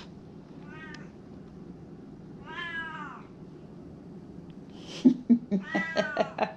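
Domestic cat meowing several times: a faint short meow about a second in, a longer meow near three seconds, and louder, choppy meows near the end.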